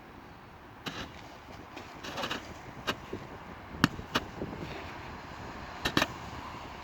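A run of sharp clicks and knocks at uneven intervals, some in quick pairs, the loudest about four seconds in, over a steady background hiss.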